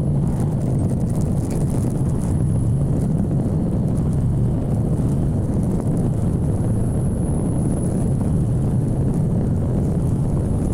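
Steady low rumble of wind buffeting the microphone on a moving motorcycle, with the bike's engine running underneath.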